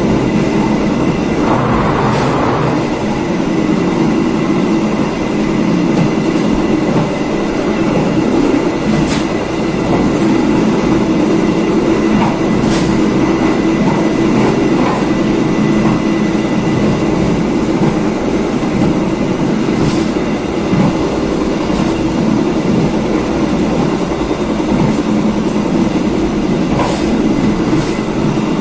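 Passenger train's carriage running at speed along the track: a steady rumble of wheels on rail with a few sharp, scattered clicks.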